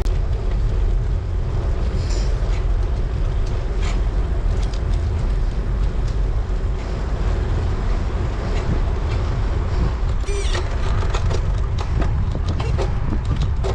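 Wind buffeting the microphone of a rider on a moving road bicycle, a steady low rumble, with a brief high squeak about ten seconds in.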